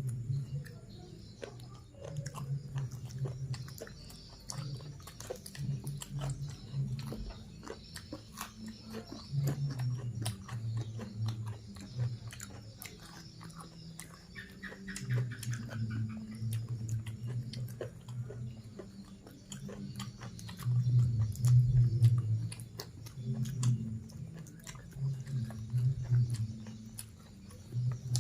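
Close-up chewing of a person eating, with many small wet mouth clicks and uneven low pulses of jaw and swallowing noise that come and go.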